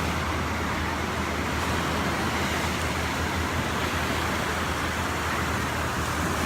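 Ocean surf washing onto the beach in a steady rush, with wind rumbling on the microphone.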